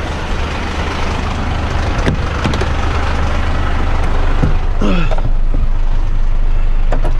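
Heavy rigid truck's diesel engine running steadily with a constant low hum, with a few light knocks about two seconds in and a short falling squeal about five seconds in.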